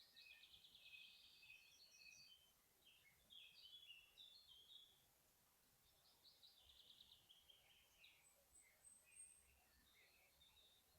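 Faint forest songbirds singing: short trilled and chirping phrases, one after another with brief pauses, and a thin high whistle about eight seconds in.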